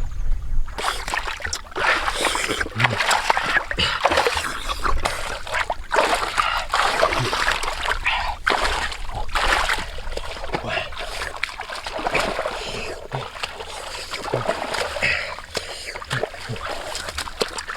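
Water splashing and sloshing irregularly in a shallow stream, a steady run of uneven splashes.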